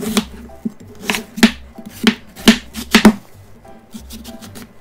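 Chef's knife cutting through watermelon and rind and knocking on the cutting board: about seven sharp chops, several coming in quick pairs.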